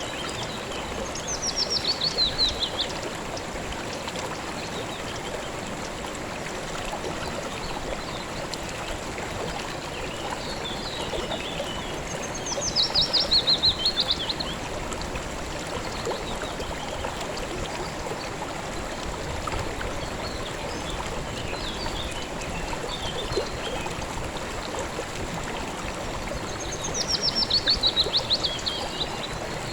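River water flowing with a steady rushing babble. A songbird sings three times, about every 13 seconds; each song is a quick run of notes falling in pitch and stands out above the water.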